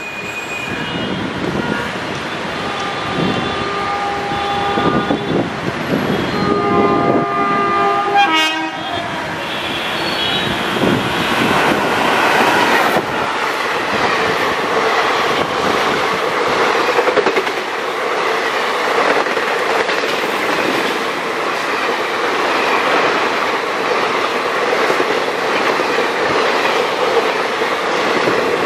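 WAP-4E electric locomotive sounding its horn in several blasts as it approaches at speed, the pitch dropping sharply as it passes about eight seconds in. Then the express coaches rush past at about 100 km/h with continuous wheel-on-rail noise and clickety-clack.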